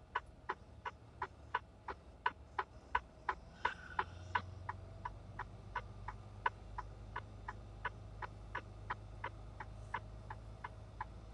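Truck's flasher relay clicking steadily, about three clicks a second, over the low hum of the idling engine in the cab.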